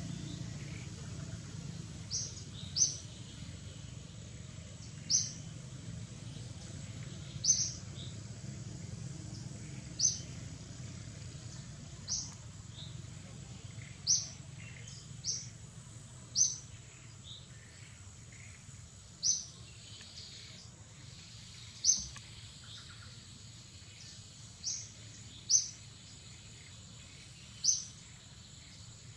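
A bird repeating a short, sharp, high chirp every one to three seconds, over a steady low background rumble.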